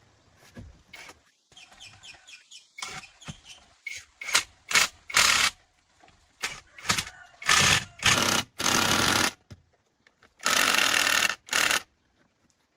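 Workshop repair noises: a series of sharp knocks and clicks, then several bursts of hissing noise lasting about a second each, with a short pause between them.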